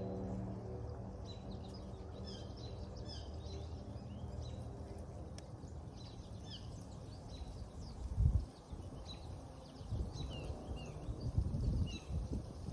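Small birds chirping over and over, short high notes that slide downward, over a low steady hum. Several dull low thumps come about eight seconds in and again near the end.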